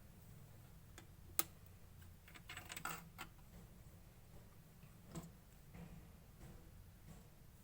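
Clear slime being mixed, giving sparse sticky clicks and pops. There is a sharp click about a second and a half in, a quick crackling cluster just before three seconds, and softer single clicks after five seconds.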